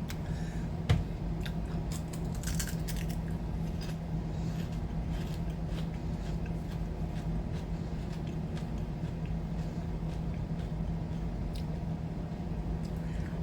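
Crunching and chewing of Funyuns onion-flavored rings, scattered crisp crunches and clicks, with a steady low hum in the background.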